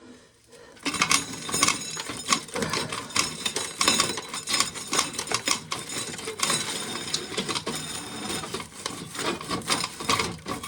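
Dry field corn being shelled by hand: kernels and cobs rattling, clicking and scraping in a dense, irregular run that starts about a second in.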